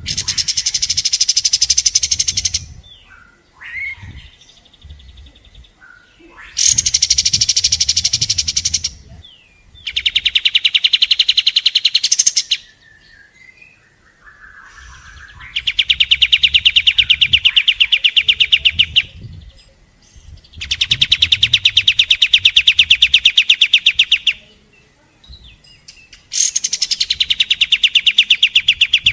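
Kapas tembak bird singing: six bouts of a very fast, dense trill of rapidly repeated high notes, each lasting about three seconds, with short pauses between them.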